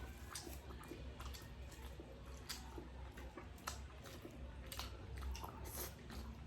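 Person chewing food close up: faint wet mouth sounds with scattered sharp clicks and smacks.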